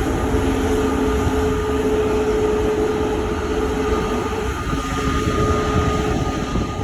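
Jet airliner engines running: a steady loud rumble with two held whining tones over it.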